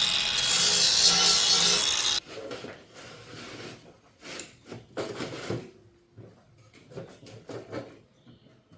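A manual tile cutter's scoring wheel scraping across a large-format tile in one harsh, rasping pass that stops abruptly about two seconds in, followed by scattered knocks and clicks as the tile and cutter are handled.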